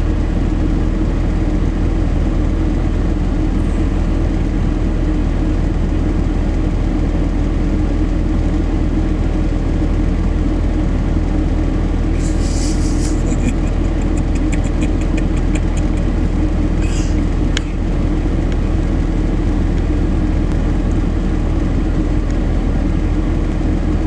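A vehicle engine running steadily at low speed, a constant low drone. About twelve seconds in there is a brief hiss followed by a few seconds of quick clicking or rattling, then a sharp click.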